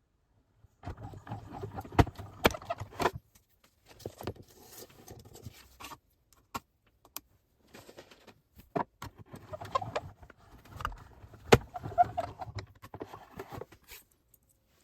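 Metal cutting dies, plates and card being handled for die cutting: intermittent clatter and clicks, with a few sharp knocks and short quiet gaps between.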